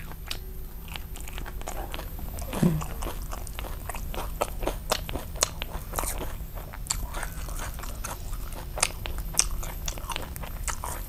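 Close-up chewing of a rice-paper roll of grilled pork sausage (nem nướng), fresh herbs and crispy fried rice-paper roll, with irregular crisp crunches throughout.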